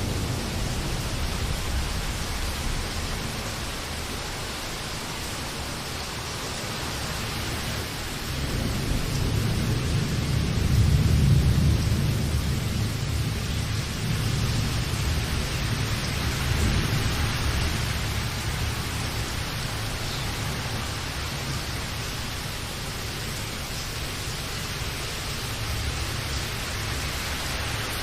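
Steady rain falling, with a low rolling rumble of thunder that builds about a third of the way in, peaks a little before the middle and slowly fades.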